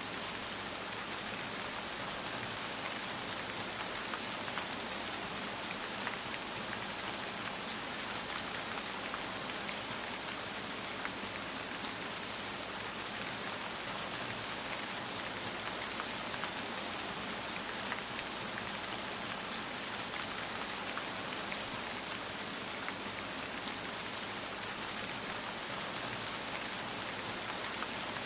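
Steady rain falling, an even hiss of drops on a surface with faint individual drop ticks throughout.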